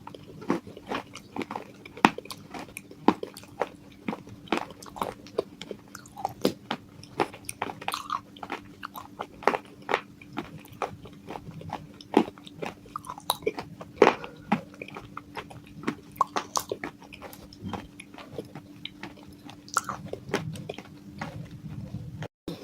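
Broken clay pot pieces coated in white and red chalk paste being bitten and chewed: a rapid, irregular run of sharp cracks and crunches, over a steady low hum.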